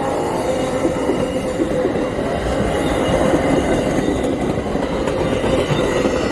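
Passenger train led by an Amtrak ALC-42 locomotive rolling past at speed: a loud, steady rumble and rattle of wheels on rail. Its horn cuts off just as the sound begins.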